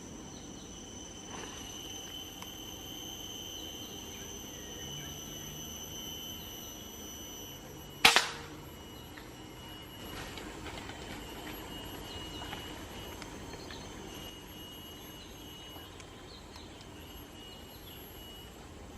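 A single sharp gunshot about eight seconds in, from the hunter's rifle fired at roosting green pigeons, over steady night insects chirring at two high pitches.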